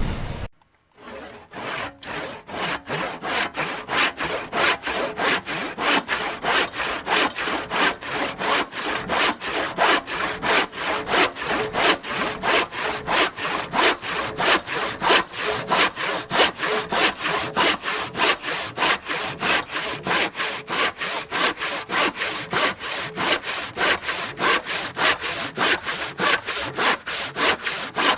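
Hand saw cutting through wood in quick, even back-and-forth strokes, starting about a second in and keeping a steady rhythm.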